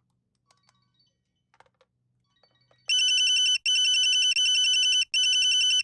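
A few faint clicks, then, about three seconds in, a phone ringtone starts ringing in repeated short bursts of a little under a second each.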